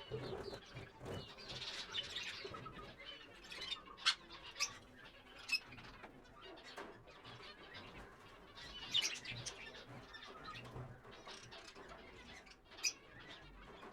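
Chattering and chirping of many caged aviary birds, with a few sharp, louder calls standing out about four, five and nine seconds in and again near the end.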